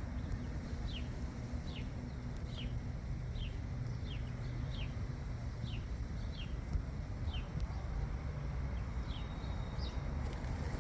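A bird calling over and over in short, falling chirps, roughly one to two a second, over a steady low background rumble.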